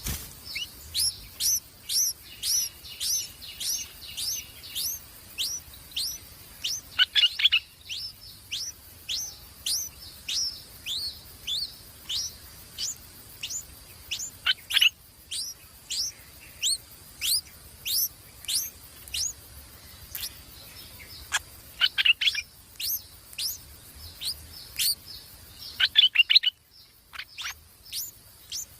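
A small bird calling repeatedly: sharp, high chirps that sweep downward, about two a second, broken four times by a quick run of rapid, lower notes.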